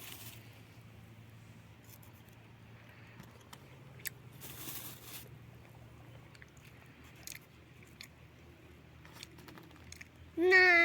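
Faint crunching and chewing with a few brief rustles. Near the end comes a loud, drawn-out call that dips slightly in pitch.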